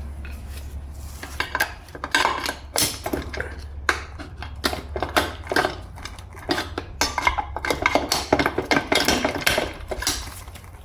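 Metal internal parts of a Toyota U760E six-speed automatic transmission clinking and clattering as they are handled and worked loose, a rapid, uneven run of sharp metallic clicks and clanks starting about a second in.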